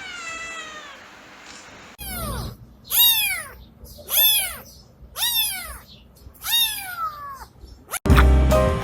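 Domestic cat meowing. First comes one long meow falling in pitch. Then, after an abrupt cut, a run of five meows about a second apart, each rising then falling. Loud music cuts in just before the end.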